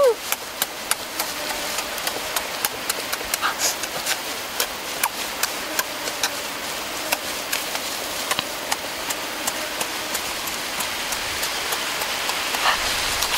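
Close-up eating sounds: chewing and lip-smacking, a run of small sharp wet clicks several times a second over a steady hiss.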